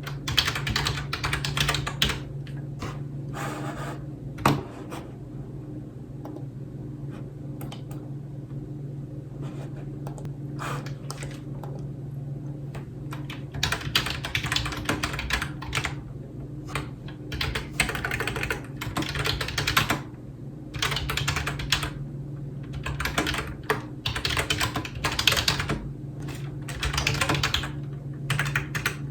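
Typing on a computer keyboard in bursts of rapid clicking separated by short pauses, with a lull of several seconds about five seconds in that holds only a few scattered keystrokes. A steady low hum runs underneath.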